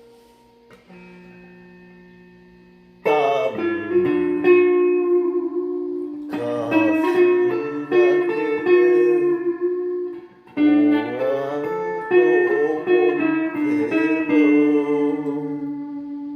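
Guitar music: quiet held notes, then louder plucked and sliding guitar phrases from about three seconds in, with a brief dip and a new phrase near the middle.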